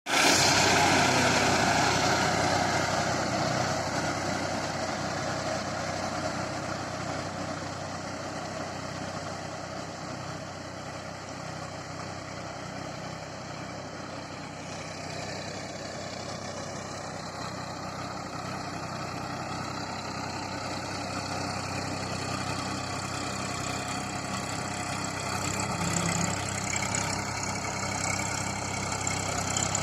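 New Holland 3230 tractor's three-cylinder diesel engine running steadily while working a six-foot rotavator. It is loud at first, fades over about ten seconds, then slowly grows louder again.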